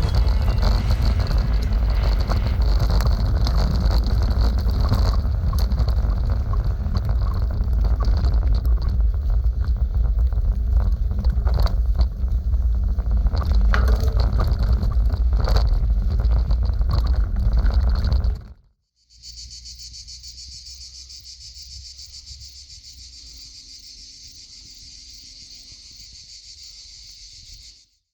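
Wind buffeting the microphone while riding a mountain bike, with scattered clicks and rattles from the bike on the trail. About two-thirds of the way through it cuts off suddenly to insects chirring steadily.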